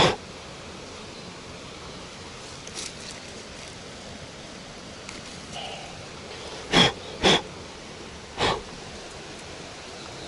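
Four sharp knocks, one at the start and three close together about seven seconds in, over a steady outdoor hiss.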